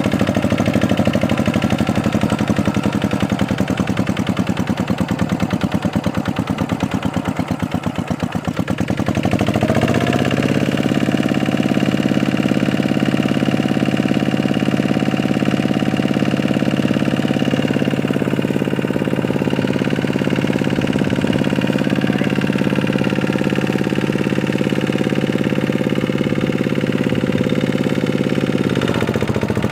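Tractor engine running steadily, then revving up about ten seconds in and holding a steady higher speed before easing back near the end.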